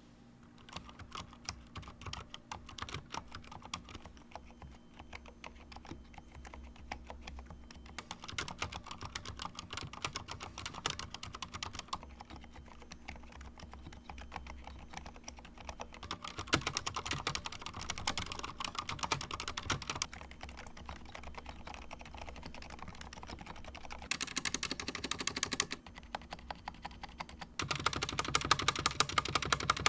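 Typing on a Corsair K70 RGB Pro TKL mechanical keyboard with Cherry MX Silent Red switches: a continuous patter of key presses, in stretches that get faster and louder several times, the busiest near the end.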